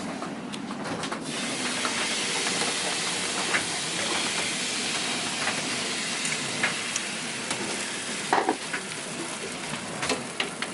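Steady hiss of heavy rain in a nor'easter gale, swelling about a second in and easing off after about eight seconds, with scattered small ticks and a few sharper knocks near the end.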